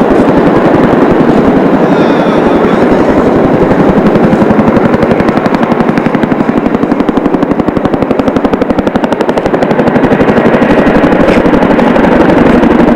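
CH-47 Chinook helicopter's tandem rotors running, a loud, rapid and even pulsing of the blades that holds steady throughout.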